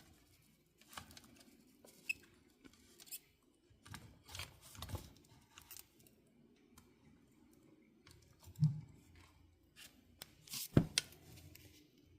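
Irregular small clicks, taps and scrapes of hands working a soldering iron, helping-hands clip and wire at a workbench while desoldering a wire from a switch, with a low thud about two-thirds through and the sharpest click near the end. A faint steady hum runs underneath.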